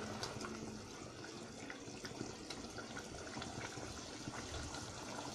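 Chicken curry simmering in its gravy in the pan: faint, steady bubbling with scattered small pops.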